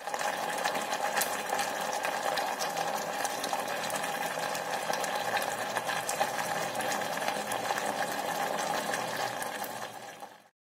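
Soy-and-oyster-sauce gravy simmering around a fried egg in an electric cooking pot: steady bubbling and sizzling with small pops, fading out near the end.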